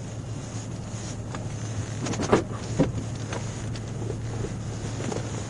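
Steady low drone of a patrol car's engine and road noise heard from inside the moving car's cabin, with a few sharp clicks about two and a half seconds in.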